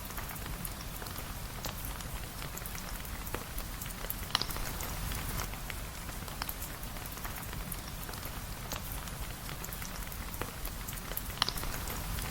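Steady rain falling, with many small drop ticks scattered through it and two sharper pops, about four seconds in and again near the end.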